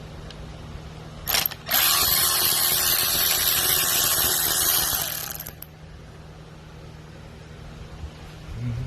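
Power ratchet with a 5 mm socket unscrewing the bolt that holds the crankshaft position sensor: a short blip about a second in, then running for nearly four seconds before stopping.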